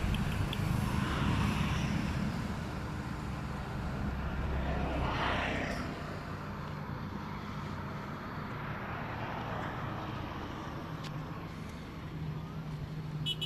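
A motor running steadily with a low hum, and a rushing swell of noise that rises and fades about five seconds in.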